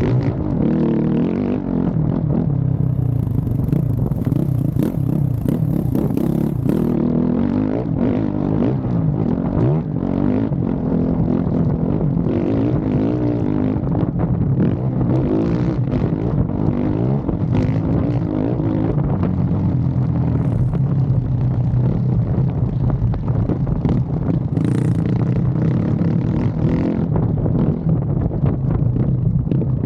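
Motocross bike engine running hard, its pitch rising and falling as the throttle opens and closes.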